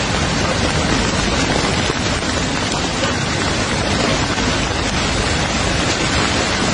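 Heavy rain pouring down: a loud, steady, dense hiss of water.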